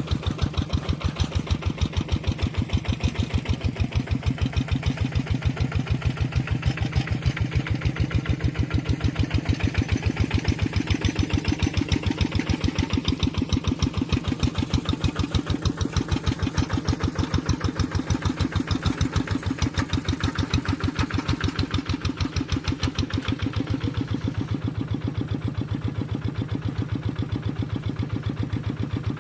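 Tractor engine running steadily with an even, rapid beat.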